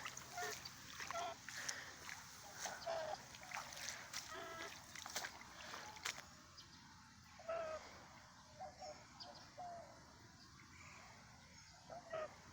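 Pet domestic goose making a series of short, soft calls, coming thickly for the first six seconds and more sparsely after.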